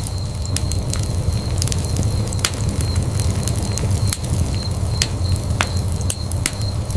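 Wood fire in a fireplace crackling: sharp, irregular pops about once a second over a steady low rumble of the flames.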